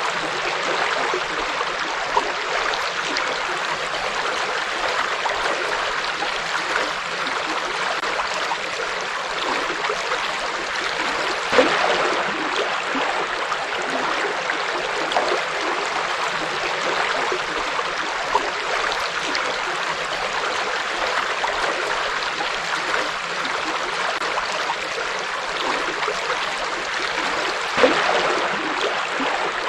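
River water flowing steadily over stones, a continuous rushing and burbling with a few brief louder splashes.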